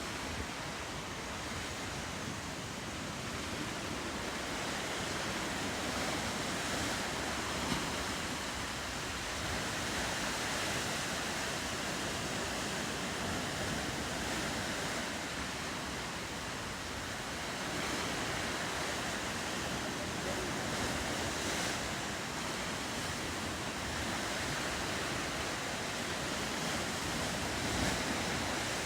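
Ocean surf with wind: a steady rushing wash of waves that slowly swells and eases.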